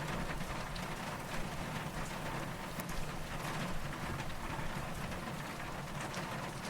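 Steady rainfall, with scattered drops pattering on a surface.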